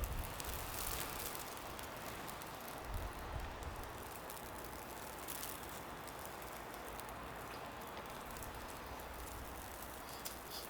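Steady soft hiss of wet snow falling on the street, close to the sound of light rain, with a few faint ticks. A low rumble fades out in the first second and swells briefly again about three seconds in.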